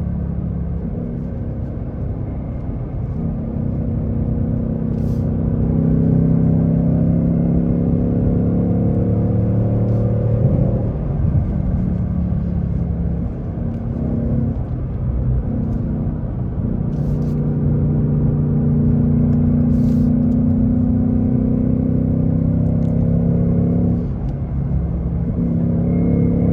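2024 Ford Mustang GT's 5.0-litre Coyote V8 through its active exhaust, pulling under load with the engine note climbing steadily in pitch. The note falls away about eleven seconds in, then climbs again and falls off once more near the end.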